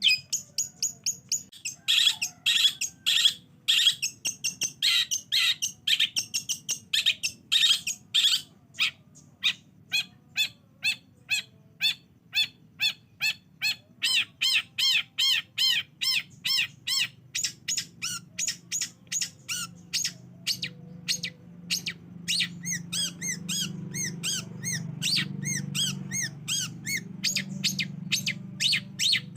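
Long-tailed shrike (cendet) song played as a lure: a long, fast run of short, sharp repeated notes, about three to four a second, harsher and louder in the first third and then a steady stream of arched chips. A low hum rises underneath in the second half.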